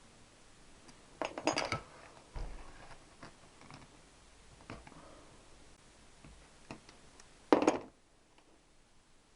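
Small metal parts and tools clinking and clattering on a workbench: a quick run of clinks about a second in, a dull knock soon after, scattered light ticks, and one short loud clatter near the end.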